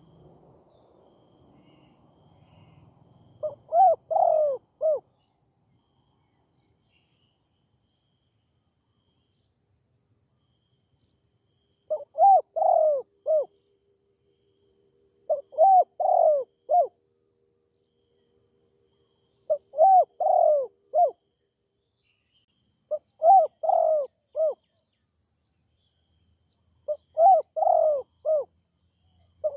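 Spotted dove cooing: six phrases of several short, bending coo notes each, the first near the start and then, after a long silent gap, one about every three and a half to four seconds.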